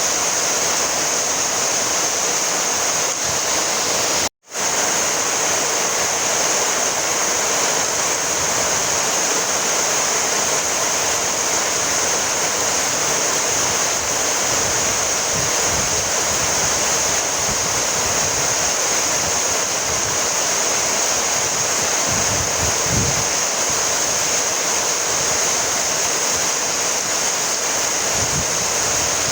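Steady rain, an even hiss of rainfall, that cuts out completely for a split second about four seconds in and then resumes unchanged.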